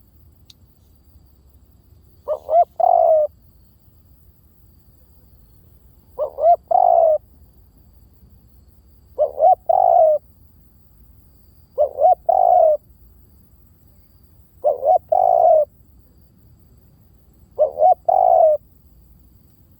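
Spotted dove cooing, a decoy call for luring doves: six calls about three seconds apart, each two short coos followed by a longer one.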